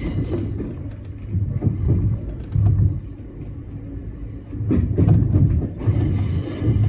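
521 series electric train running, heard from the cab: a low rumble from the wheels and motors that swells and fades, with scattered clacks as the wheels cross rail joints and points.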